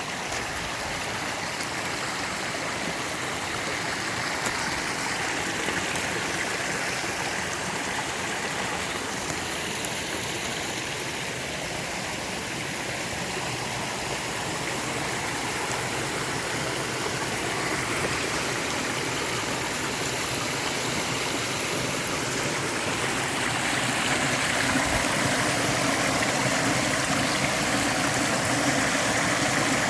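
Mountain stream flowing steadily, an even rush of water, growing a little louder about three-quarters of the way through as a faint low hum joins it.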